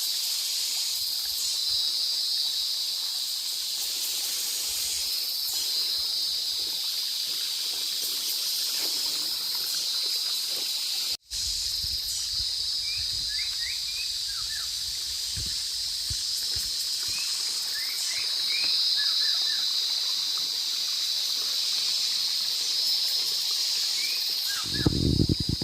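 Steady high-pitched drone of a forest insect chorus of cicadas and crickets, cut off for an instant about eleven seconds in, with short bird chirps over it in the second half.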